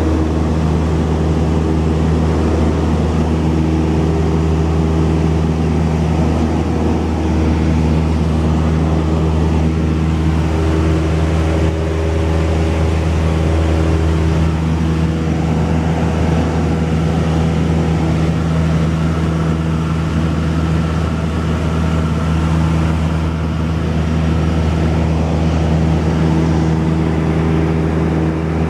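Cessna 172's piston engine and propeller droning steadily in cruise, with an even pitch and no changes in power.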